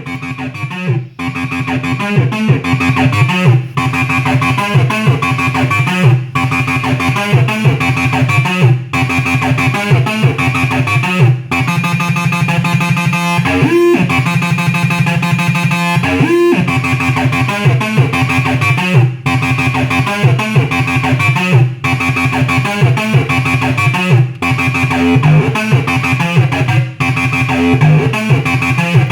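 Acid bass line from a Behringer TD-3 analog bass synthesizer, a TB-303 clone, playing a fast repeating sequenced pattern of short notes. There are a couple of sliding pitch glides around the middle.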